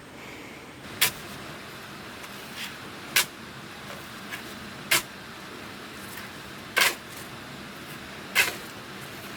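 Five short scraping strokes of a hand tool working a sand and cement mix, coming about every one and a half to two seconds over a steady low hiss.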